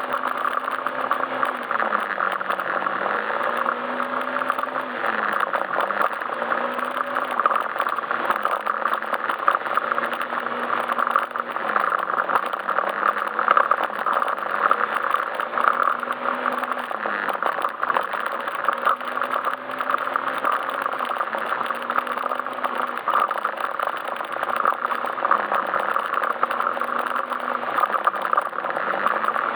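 Yamaha Majesty S scooter's single-cylinder engine running under way, its pitch dropping and rising again every few seconds with the throttle, over steady wind and road noise.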